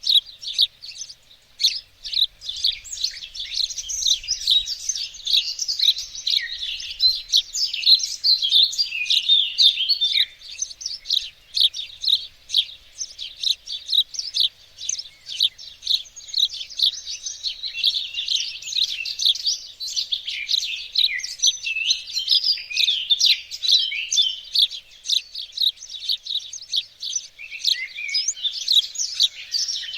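Garden songbirds chirping and singing in a dense, continuous chorus of rapid high chirps and trills.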